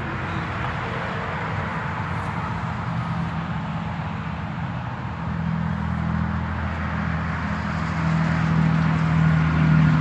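A motor vehicle engine running steadily, getting louder about halfway through and louder again near the end.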